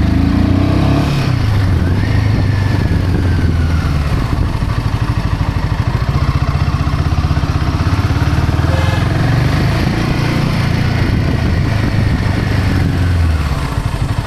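Royal Enfield Himalayan 450's single-cylinder engine and exhaust running under throttle, the pitch rising and falling several times, then dropping near the end.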